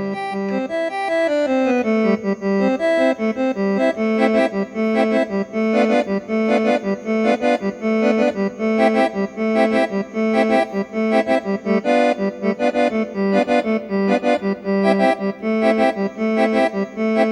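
Accordion playing a solo melody: a falling run of notes over the first two seconds, then a quick, rhythmic line of repeated notes with no bass beneath.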